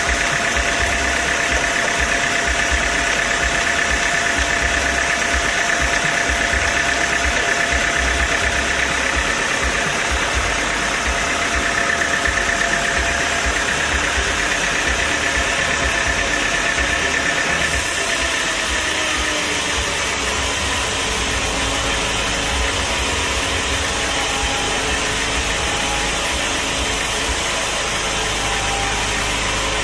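Sawmill machinery running steadily, an engine or motor hum with a steady whine; the whine fades a little over halfway through.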